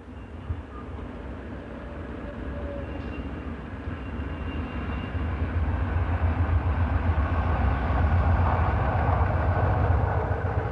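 Diesel locomotive hauling a long container freight train past: a low engine drone with rumbling wheels on the rails, growing steadily louder as it approaches.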